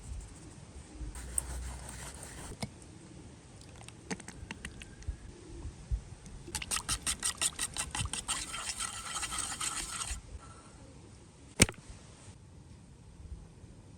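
Rapid, even scraping strokes, about five a second, lasting a few seconds, with scattered light clicks before them and one sharp knock near the end.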